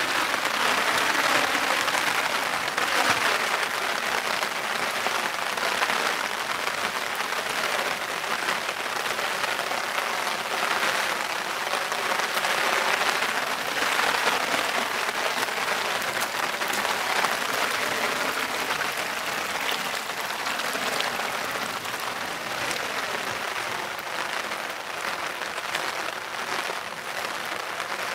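Steady heavy rain falling, a dense even hiss that swells and eases every few seconds.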